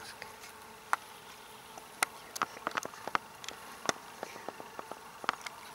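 Irregular crackling and clicking of dry grass and plant stems being brushed and snapped underfoot and by hand, a few single clicks at first, then coming thick and fast from about two seconds in.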